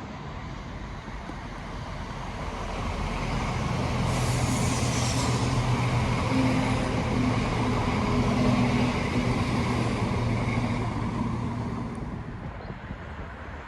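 Diesel train passing by, its sound building to a peak with a steady low engine hum and then fading away near the end.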